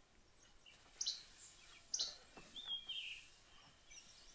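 Bird calls: two short high chirps about a second apart, then a longer note that slides downward.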